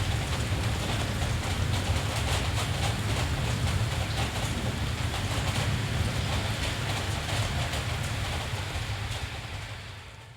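Steady heavy rain with a deep, constant low rumble underneath, fading away over the last second or so.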